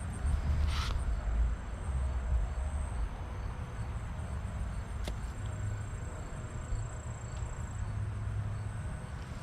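Late-summer insects trilling in one thin, steady, high pitch that stops near the end, over a steady low rumble, with a single sharp click about five seconds in.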